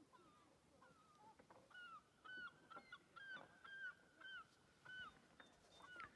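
Distant birds calling across the lake: a run of short, honk-like calls, each sliding down in pitch, about two a second. They grow louder from about two seconds in.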